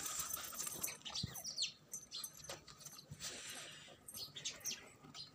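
Faint, scattered bird chirps, including a few short high calls that slide down in pitch, with occasional light clicks.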